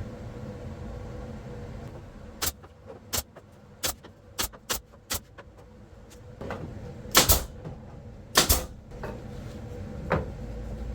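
A series of sharp knocks and clacks over a steady low hum: about six quick ones a couple of seconds in, then two louder double knocks and a last single one near the end.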